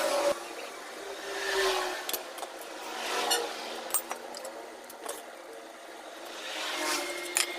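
Yamaha Jupiter motorcycle's four-stroke engine blipped and revved a few times through a drilled-out, opened-up exhaust muffler, giving a loud, raspy exhaust note.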